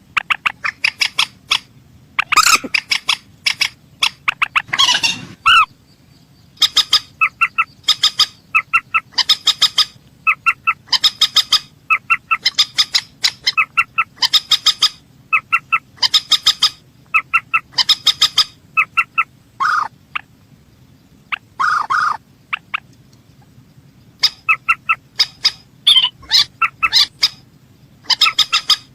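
Mandar sawah, a rail, calling: a long, rapid series of sharp, loud, clipped notes, given a couple of times a second with a few brief pauses. This is the kind of call played as a lure to draw the bird in.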